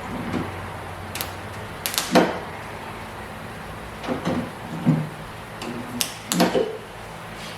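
A handful of separate knocks and clatters, like tools or containers being picked up and set down, over a steady low hum. The loudest knocks come about two seconds in and again near the end.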